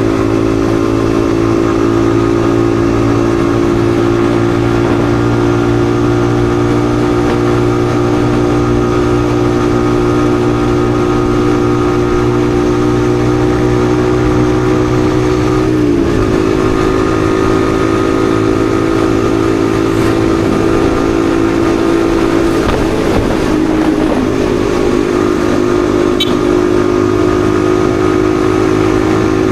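Yamaha XSR155's 155 cc single-cylinder engine running at a steady cruising pitch while riding. The pitch dips briefly and recovers about sixteen seconds in, and wavers a little a few seconds later.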